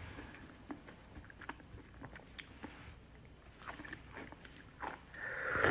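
A person chewing mouthfuls of soup with vegetables, tofu and chicken, with faint scattered clicks of mouth and utensil sounds. There is a louder hissy sound near the end.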